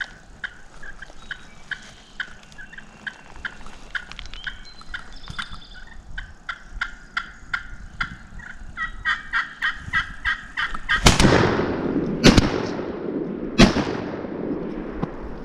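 Wild turkey calling in short, sharp notes, repeated and coming closer together. About eleven seconds in, a very loud bang with a long tail, followed by two more loud bangs roughly a second apart.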